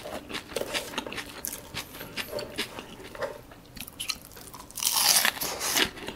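Close-miked eating of curly fries: a run of small wet mouth clicks and chewing, with a louder noisy burst about five seconds in.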